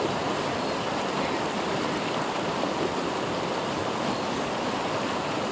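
Steady rushing of flowing water from a stream or river.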